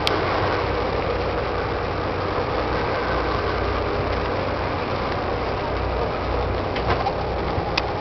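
A boat's engine running with a steady low hum under a constant rushing noise.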